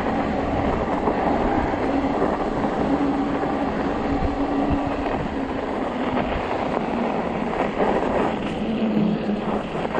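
Fat tires of an electric bike rolling over packed, groomed snow: a steady rumbling crunch, with the faint hum of the e-bike's motor under it, dropping lower near the end.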